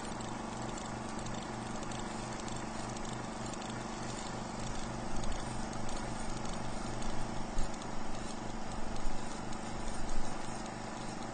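A stationary laboratory engine running steadily with a regular, rhythmic beat, with a few louder knocks in the second half.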